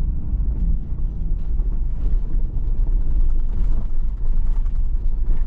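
Truck driving on a rough dirt road: a steady low rumble of engine and tyres with scattered light clicks and rattles.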